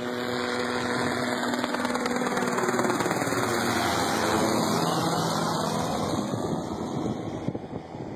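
Helicopter flying past: a steady drone whose tones drop in pitch about halfway through as it passes, then fading away near the end.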